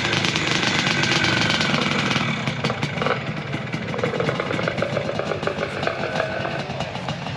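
Off-road motorcycle engines running in the pits, a continuous mechanical engine noise that eases off slightly towards the end.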